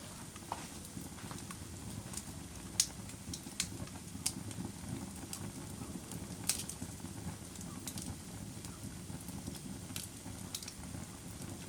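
Wood fire burning in a fireplace: a steady low rustle with scattered, irregular sharp crackles and pops.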